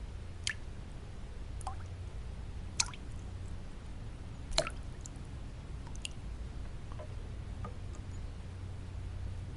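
Water drops falling and plinking at irregular intervals, some with a short pitched ring, over a steady low white-noise rumble.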